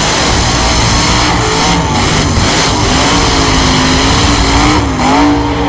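Truck doing a burnout: the engine is held at high revs while the tyres spin, with a wavering squeal over loud, continuous tyre and engine noise.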